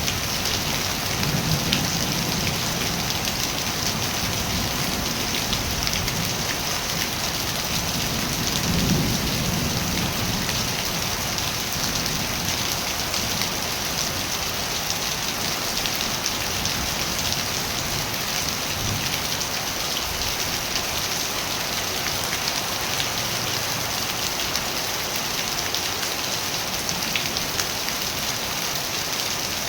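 Steady rain falling, an even hiss of drops on surfaces throughout, with two brief low rumbles, about two seconds in and again around nine seconds.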